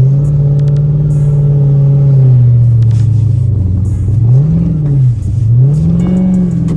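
Dodge Charger's engine and exhaust running under steady throttle, then revving up and dropping back twice in the second half as the car is slid on snow.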